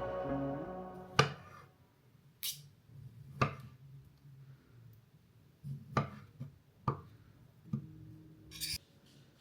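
Background music fading out, then a handful of scattered light knocks and clicks, as from things being handled and set down, one to two seconds apart.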